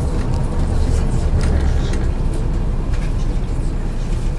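Inside the cabin of a MAZ 103.562 bus under way: a steady low engine and road rumble, with a few light clicks or rattles now and then.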